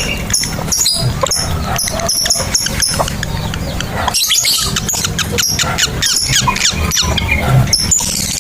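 Lovebirds chattering in a rapid run of short, high-pitched chirps and squeaks, the chatter that lovebird keepers call ngekek, with a denser flurry about halfway through.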